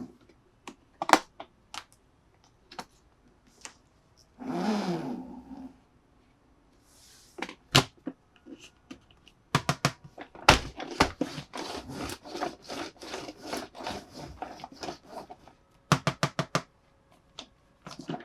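Plastic toy pieces being handled: scattered clicks and taps, a short rubbing rustle about four to six seconds in, then a dense run of rapid clicking from about ten to fifteen seconds, and a quick series of about six clicks near the end.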